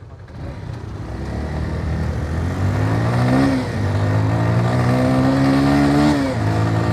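Motorcycle engine accelerating hard, its pitch climbing, dropping briefly twice as it shifts up a gear, then climbing again, with wind noise growing as the speed rises.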